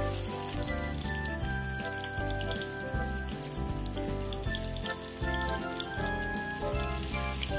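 Turon, banana and jackfruit spring rolls, deep-frying in oil and caramelising sugar in a wok, with a steady crackling sizzle. Background music plays throughout.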